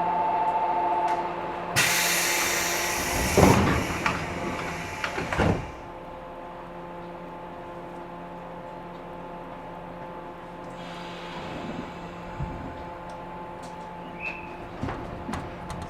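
Passenger doors of a 113 series electric train: a sudden loud air hiss from the door engines, then two heavy thuds as the doors slide and bang to. Afterwards the stationary train's steady equipment hum with a few small knocks.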